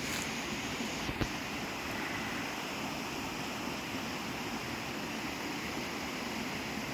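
Steady rushing outdoor noise, with one short knock about a second in.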